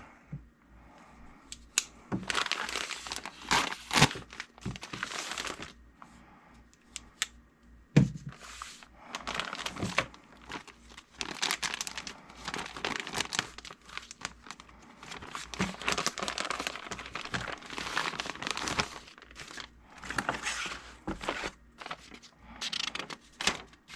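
Packaging crinkling, rustling and tearing as a hobby kit is unpacked by hand, in repeated bursts with a few sharp knocks.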